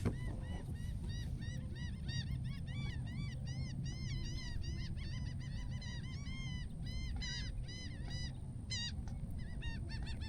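A flock of birds calling: many quick, high, squeaky arched calls, several a second and overlapping, over a low steady rumble.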